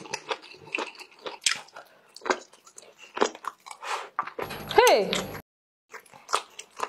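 Close-miked mukbang eating: biting and chewing of red-sauced squid, a run of quick wet clicks. A little past the middle a loud voice gives one brief exclamation falling in pitch.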